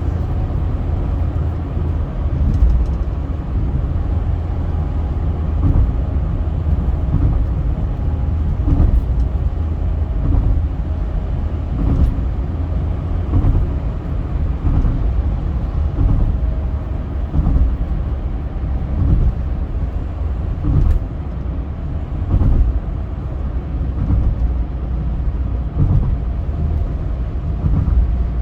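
Road noise from a car driving on a highway: a steady low rumble with frequent irregular thumps and a faint steady whine.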